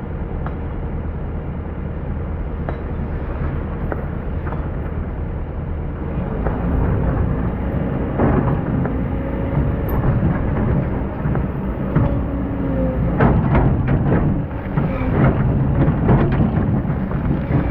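Hydraulic excavator's diesel engine running under load, a faint steady whine over the low rumble, with the bucket scraping and knocking as it digs into hard compacted sand. The work gets louder about six seconds in, with a run of sharp knocks from about eight seconds on.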